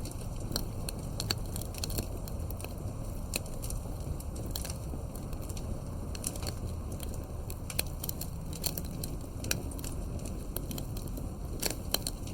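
Campfire burning with irregular sharp crackles and pops from the wood over a steady low rumble of flames.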